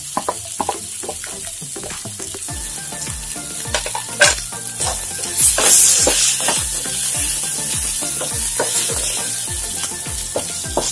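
Sliced onions sizzling in hot oil in a nonstick frying pan while a spatula stirs them, scraping and tapping against the pan. The sizzle swells a little past halfway through.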